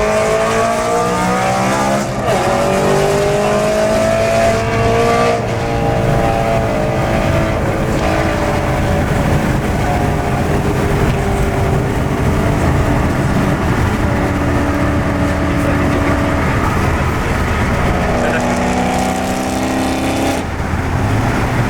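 Straight-piped E90 BMW M3's 4.0-litre V8 under hard acceleration, its pitch climbing through each gear and dropping at the shifts, with steadier stretches in between and a last climb near the end.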